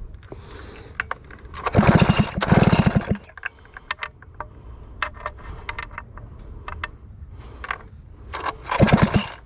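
Stihl 051 chainsaw engine spun over by its recoil starter cord, pulled in a spell about two seconds in and again near the end, to test the ignition for spark. Sharp ticks come in between the pulls.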